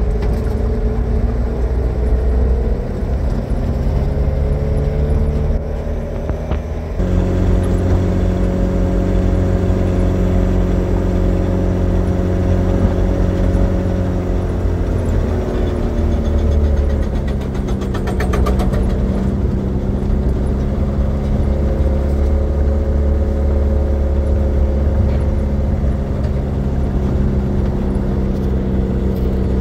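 Car engine running under way, heard from inside the moving car with road noise. The engine note shifts suddenly about seven seconds in, dips and glides around the middle, then settles into a steady drone.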